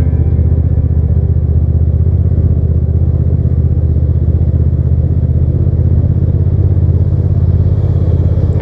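Hyosung GT650's V-twin engine running at a steady cruising speed while riding, with wind and road noise over it.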